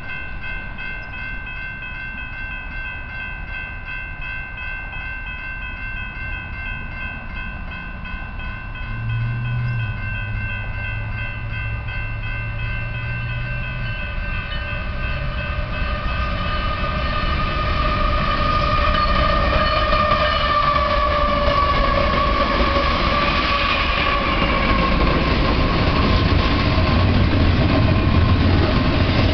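Grade-crossing bell ringing rapidly as a BNSF double-stack intermodal freight train approaches. The locomotive horn sounds, its tones sliding lower from about halfway through, and the train's rumble grows steadily louder until the container cars are rolling through the crossing near the end.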